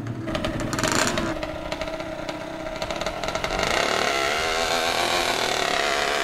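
Small four-stroke drag motorcycle engine running at the start line, with some clattering early on; its revs rise and fall around four seconds in, then it holds a steady high idle.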